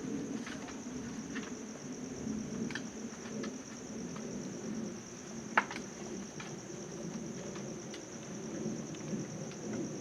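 A steady, high-pitched chorus of insects chirping, over a low rumble, with faint scattered clicks and one sharp click about halfway through.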